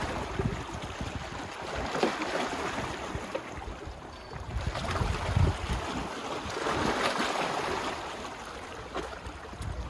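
Small waves washing onto a beach, the wash swelling and falling back every few seconds, with low rumbles of wind on the microphone.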